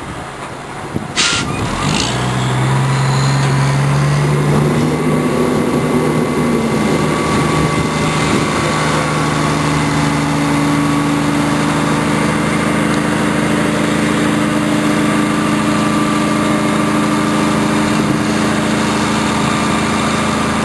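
Triaxle dump truck's diesel engine speeding up and holding steady at raised revs to power the hydraulic hoist as the bed tips and dumps its load of manure. A short sharp burst sounds about a second in, just before the engine speeds up.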